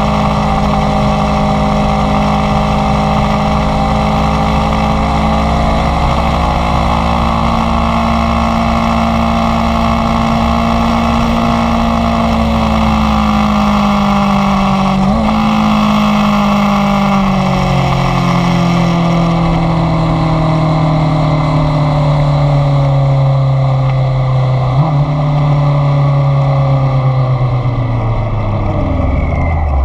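Inline-four sport motorcycle engine running on the road, its pitch slowly falling as it slows. The pitch jumps up briefly about halfway and again about five seconds before the end, then drops steeply right at the end.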